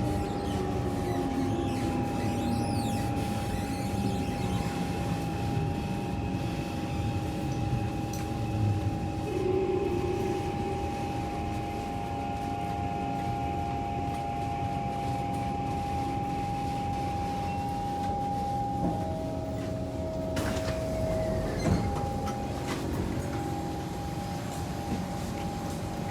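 Kawasaki C151 metro train interior as the train comes to a stop at a station: a falling motor whine at the start gives way to a steady electrical hum while the train stands. About 20 seconds in come a short tone and a few sharp knocks.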